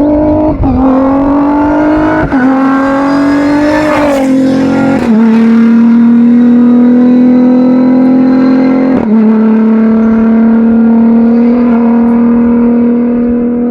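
Rally-raid car's engine at high revs, shifting up with sudden drops in pitch about half a second, two, five and nine seconds in. Between shifts the note climbs, then it holds a steady high note and fades near the end.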